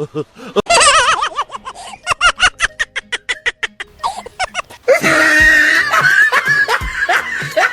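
Laughter: a wavering laugh about a second in, then a run of quick, even "ha-ha" pulses, and from about five seconds in denser laughter over a steady tone.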